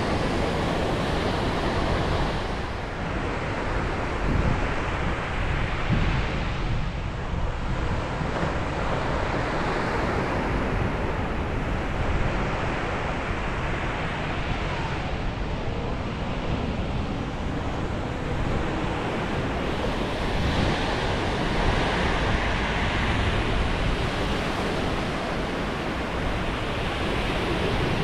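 Ocean waves breaking and washing on a beach, the surf rising and falling in slow swells every few seconds, with wind rumbling on the microphone.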